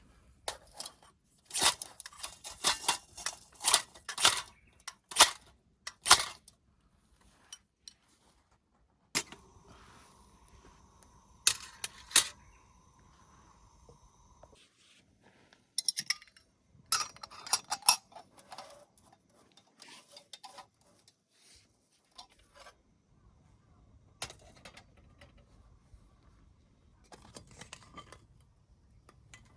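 Metal camping gear being handled: clinking and rattling in irregular bursts, with a steady high tone lasting about five seconds in the middle.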